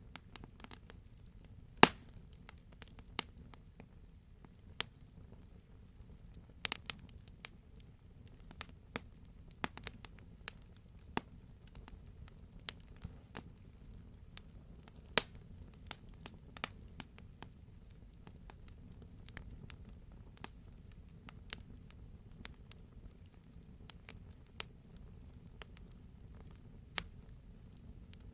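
Campfire crackling: irregular sharp pops and snaps of burning wood, several a second with the loudest pop about two seconds in, over a low steady rumble.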